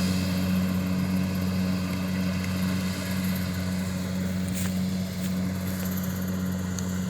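Kubota rice combine harvester running steadily, its engine giving a constant low hum.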